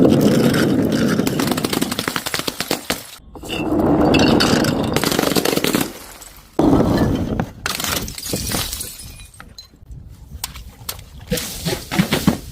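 Glass bottles shattering three times, about three seconds apart, each break followed by a dense clatter of falling shards that dies away. Scattered tinkles and clinks of glass pieces near the end.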